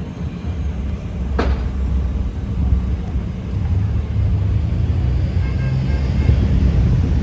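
Motor vehicle approaching on the road, its low engine rumble growing steadily louder, with a brief sharp click about a second and a half in.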